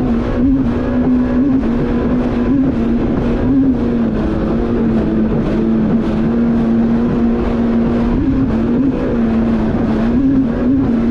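Yamaha VX Cruiser H.O. WaveRunner's four-stroke engine and jet pump running steadily at high speed, its pitch lifting briefly several times, over a heavy rush of wind and water.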